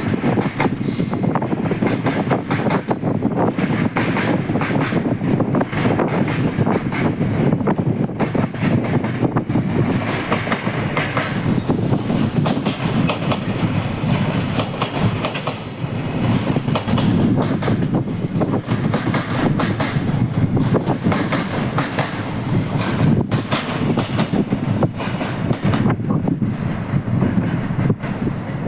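Freight train running past on the line, its wagon wheels clattering steadily over rail joints, with brief high-pitched wheel squeals a few times around the middle.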